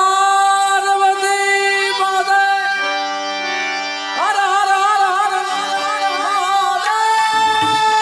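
Gujarati folk singing: a voice holding two long notes, the second with a wavering ornament, over a steady drone. Tabla joins in near the end.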